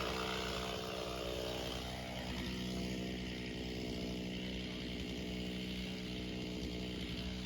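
Gasoline chainsaw running at high speed in a steady drone, with the high end of its sound easing a little about two seconds in.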